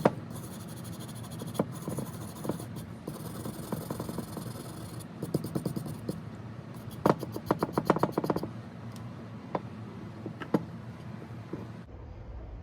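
Hand polishing a metal coin bank with a cloth, a steady rubbing and scraping with small knocks. Twice in the middle it breaks into a quick run of short strokes.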